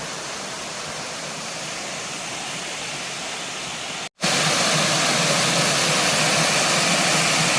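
Water rushing over a small waterfall: a steady rush that cuts off about four seconds in and comes back louder.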